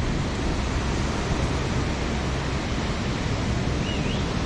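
Ocean surf washing steadily onto the beach, a continuous hiss of breaking waves with a deep low rumble, and a brief high chirp near the end.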